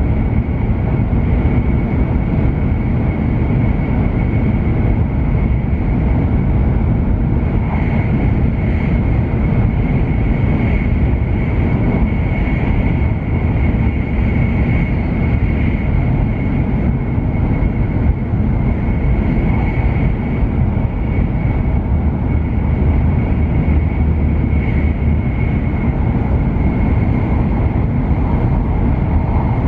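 Cabin noise inside a W7 series Shinkansen running at speed: a steady, loud low rumble with a thin high whine held throughout.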